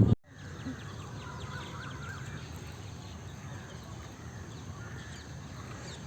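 Birds chirping and calling over a steady outdoor background noise, with a wavering call from about half a second to two and a half seconds in.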